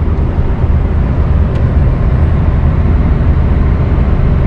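Steady low drone of a Scania R580's V8 diesel and tyre and road noise, heard inside the cab of the truck driving along.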